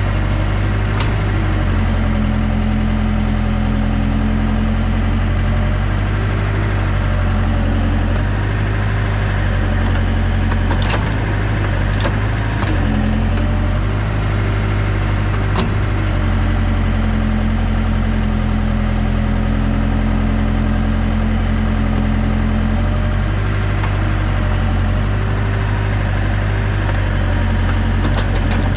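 Heavy equipment engine running steadily, its pitch dipping slightly now and then, with a few sharp knocks.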